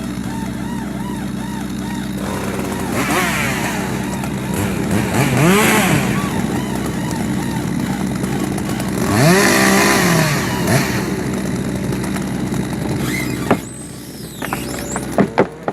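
Chainsaw engine running steadily, revved up and let back down twice; a few sharp knocks near the end.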